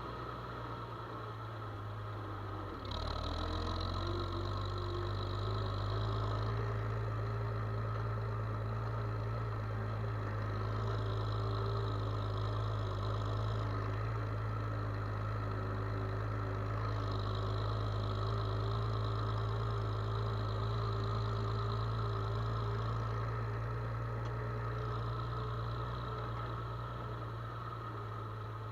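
A diesel farm-machine engine running steadily. About three seconds in it grows louder as something engages: a hum rises in pitch and then holds as a steady whine. A higher hiss comes and goes several times over the following seconds.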